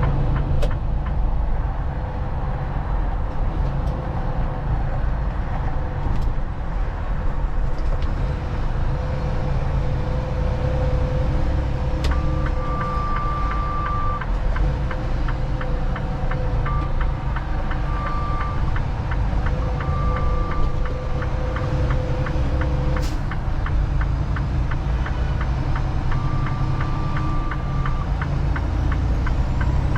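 Semi truck cab while driving: a steady engine and road rumble. In the second half there is faint fine ticking and a few short high-pitched tones.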